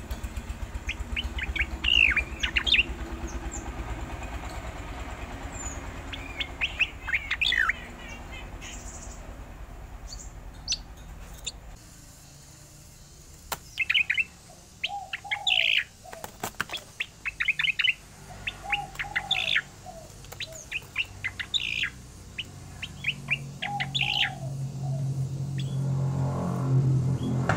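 Striated grassbird (cica koreng) singing in quick runs of short, sharp chirps and whistles, with some lower warbled notes in the second half. A low rumble builds near the end.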